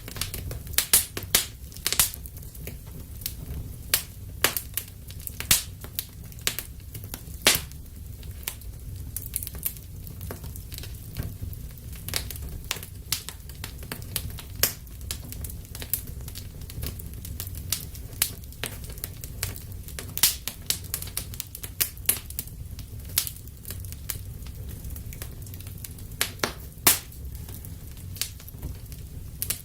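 Wood fire burning in a fireplace: irregular sharp crackles and pops, several a second, some louder than others, over a steady low rumble.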